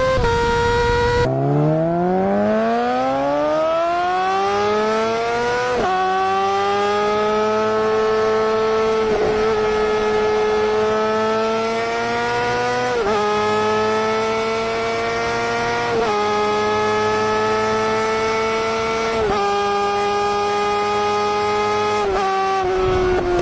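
600 cc inline-four sport bike engine at full throttle, screaming at high revs. About a second in, the pitch climbs steeply from low revs over a few seconds, then stays high with a brief dip every three to four seconds as it shifts up through the gears.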